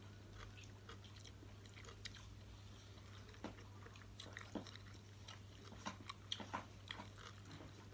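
Faint mouth sounds of a person eating soft macaroni pasta by hand: wet chewing and small lip-smacking clicks scattered through, over a low steady hum.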